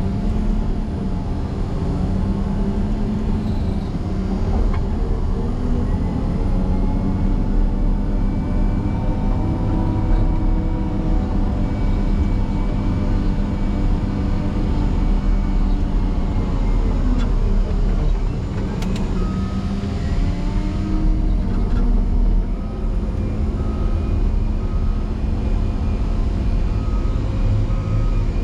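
Motor grader's diesel engine running hard under load, its pitch sagging and recovering a few times as it works through snow. From about two-thirds of the way in, a steady on-off beeping of a backup alarm joins it.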